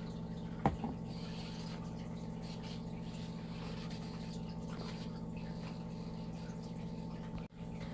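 Steady low electrical hum with faint hiss, and one soft click about a second in.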